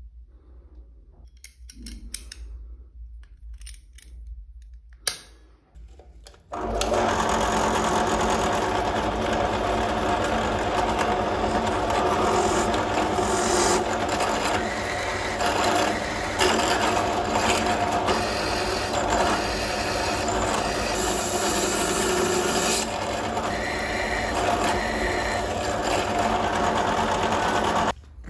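A power tool starts about six and a half seconds in and runs steadily, working noisily, until it cuts off just before the end. Before it starts there are a few light clicks and taps of handling.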